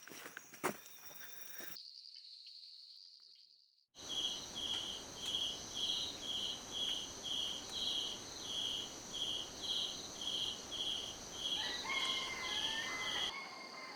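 Night insect chorus: a steady high-pitched trill with a rhythmic chirp repeating just under twice a second. A few faint bird-like calls come in near the end.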